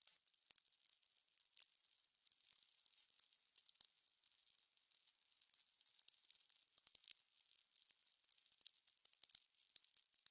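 Fire crackling: a steady run of irregular small snaps and pops over a faint hiss.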